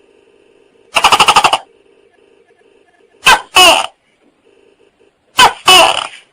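Tokay gecko calling: a quick rattling run of clicks about a second in, then two loud two-note "to-kay" calls, each a short first note followed by a longer note that falls in pitch. A faint steady drone runs underneath.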